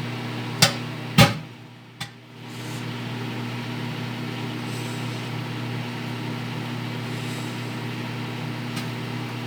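Microwave oven running with a steady hum, three eggs heating inside. Two sharp clicks come within the first second and a half, the second the loudest, with a fainter click about two seconds in.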